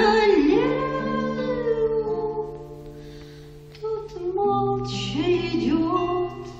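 A singer performing a Russian romance to acoustic guitar, holding long drawn-out notes that fade about two seconds in. Near the middle a new sung phrase begins over the guitar.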